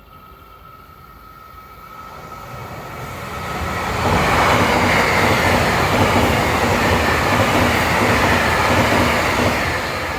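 Train passing close by: rolling wheel and rail noise that builds as it approaches, stays loud for about five seconds with a regular beat underneath, then begins to fade as it draws away.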